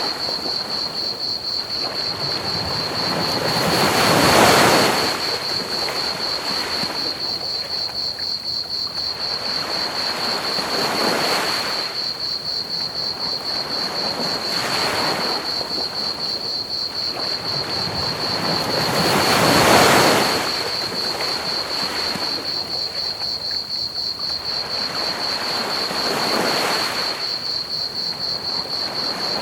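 Ocean waves breaking on a beach in slow swells, the two biggest about four and twenty seconds in, over a steady, fast, high chirping of crickets and a constant hiss of pink noise.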